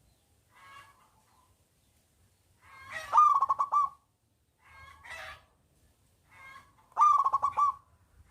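Zebra dove (perkutut) singing: two loud cooing phrases about four seconds apart, each ending in a quick run of repeated coo notes, with softer short coos in between.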